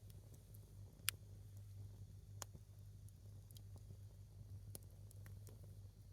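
A single log of firewood burning in a small open fire: sparse, faint crackles and pops a second or two apart, the sharpest one about a second in, over a faint steady low hum.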